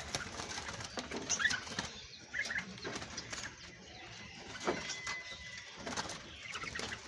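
Many caged small birds calling together: scattered short, high chirps and twitters overlapping one another.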